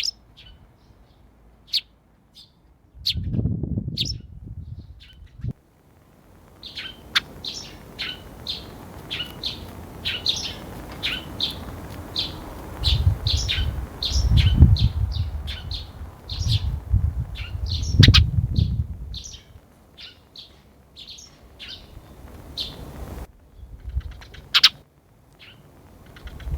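A sparrow chirping: a few scattered chirps, then quick, repeated short chirps several times a second from about six seconds in. Low rumbling noise comes and goes underneath.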